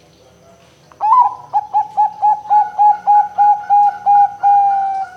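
Zebra dove (perkutut) cooing. A rising opening note about a second in, a quick run of about ten short coos, and one long drawn-out coo to finish.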